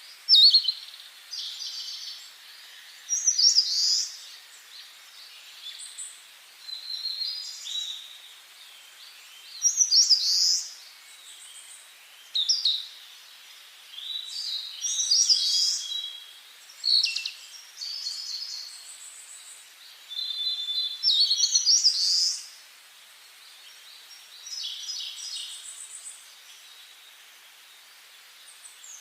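Wild songbirds singing in a forest: short, high-pitched phrases of chirps and trills come every few seconds, with brief gaps between them, over a faint steady background hiss.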